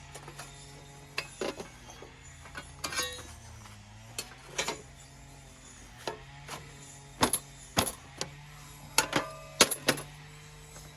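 Metal parts of a folding fire stand clicking and clanking as they are fitted together, in a dozen or so separate sharp knocks, the loudest cluster late on.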